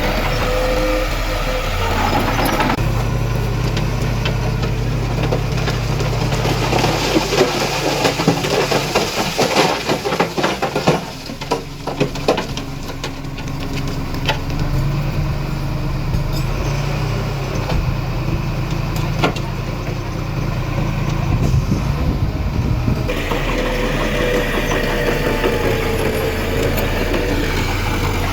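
Diesel engine of heavy earthmoving machinery running under load. A dense run of clanking and rattling comes in the middle stretch, and the engine sound changes abruptly twice.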